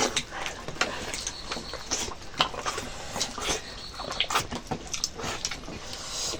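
Close-up mouth sounds of eating rice with chicken curry: wet chewing and lip-smacking, heard as irregular short clicks.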